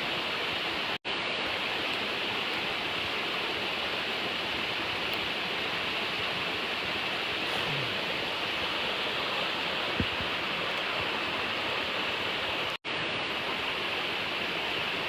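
Steady rushing of a nearby river, an even hiss, with one faint click about ten seconds in. The sound cuts out completely for an instant twice.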